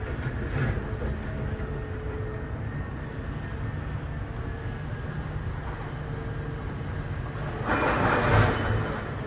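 Idromec T 650 CLS scrap metal shear baler running, a steady mechanical drone with a low rumble and a constant hum. Near the end a louder, harsher burst of noise lasts about a second.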